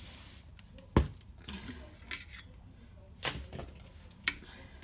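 Handling noises of items being moved and set down: one sharp knock about a second in, then a few lighter clicks and rattles.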